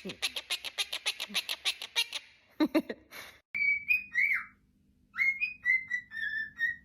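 A pet bird makes a fast run of clicking chatter for about two seconds. From about halfway in, a parrot whistles a string of short clear notes, some sliding up or down, over a steady low hum.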